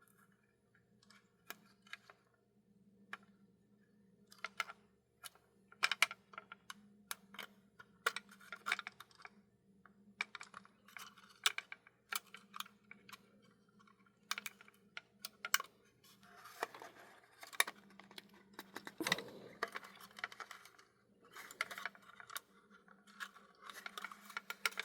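A thin metal piece used as a wedge clicking and scraping against a tight-fitting plastic HO-scale locomotive shell as it is pried at the seam. The clicks are irregular, with longer scraping runs in the last third, over a faint steady hum.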